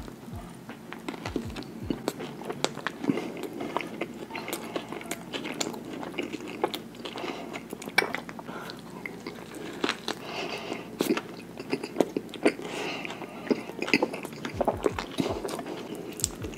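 A man biting and chewing Big Macs thickly coated in Big Mac sauce, close to the microphone. The mouth sounds come as a dense run of sharp clicks and smacks.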